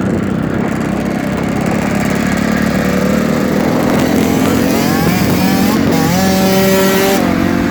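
Dirt bike engine running under way. Its pitch rises as it accelerates through the middle, then holds at higher revs near the end.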